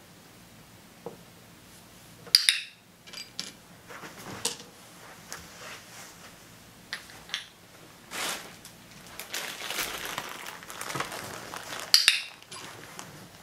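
Small toy figures and plastic pieces tapping, clinking and sliding on a tabletop, with two sharp clicks of a training clicker, one about two seconds in and one near the end.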